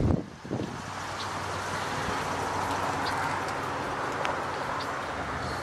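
The 2013 Chevy Equinox's 3.6-litre V6 idling with a steady low hum, under a broad rushing noise that swells slightly through the middle.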